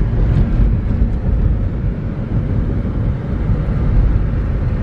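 Car driving through snow, heard from inside the cabin: a steady low rumble of engine and tyres.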